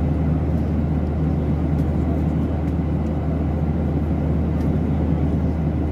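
Steady low drone of jet engines and rushing air heard inside a passenger airliner's cabin in flight.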